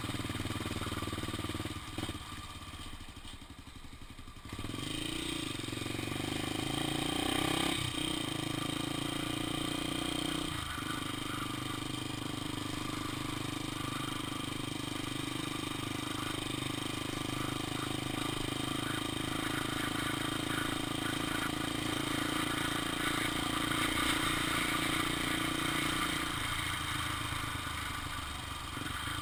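Honda XR Tornado's single-cylinder four-stroke engine running on the ride. It eases off about two seconds in, picks up again a couple of seconds later, holds a steady pace, and drops back near the end.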